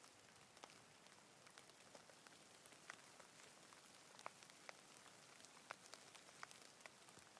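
Light rain, faint: a soft even hiss with scattered individual drops ticking sharply, a few louder ones near the middle.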